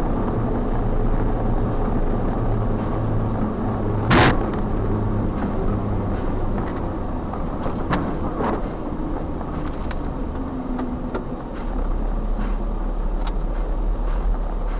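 A car driving: steady engine and road noise, with one short sharp knock about four seconds in and a few fainter ticks later.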